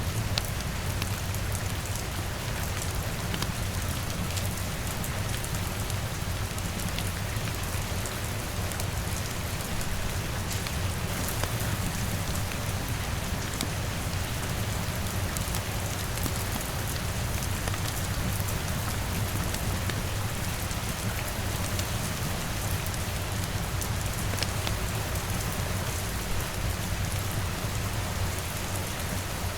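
Steady rain pattering on a window, mixed with the scattered snaps of a crackling wood fire, over a constant low rumble.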